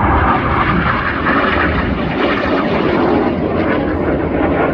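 A fixed-wing aircraft's engine noise, loud and sustained, its pitch sinking over the first couple of seconds as the aircraft passes.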